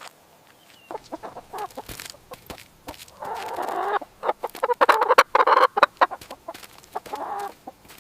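Chickens clucking: a run of short, sharp calls, with louder bouts of calling a few seconds in and again near the end.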